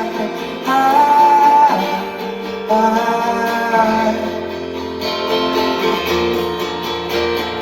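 Live band music led by strummed acoustic guitar, with held wordless vocal notes rising and falling over it.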